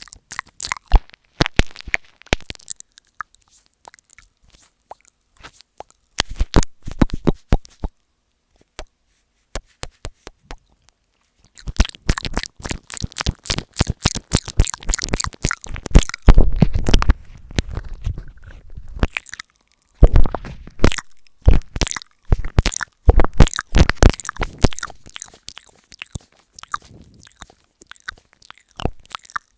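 Close-up ASMR mouth sounds on an earphone microphone: wet clicks and smacks in dense runs, broken by a couple of quieter pauses. Around the middle there is a louder, deeper muffled stretch as the mouth works right over the mic.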